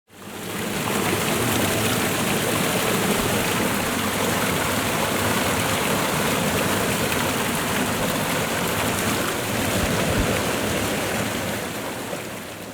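Waterfall: a steady rush of falling water that fades in at the start and fades out near the end.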